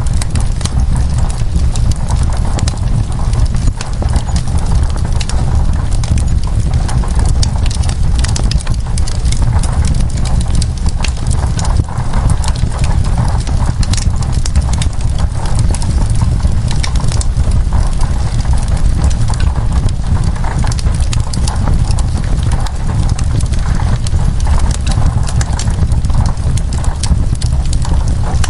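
Wood fire crackling, with many quick sharp pops and snaps over a steady low rumble.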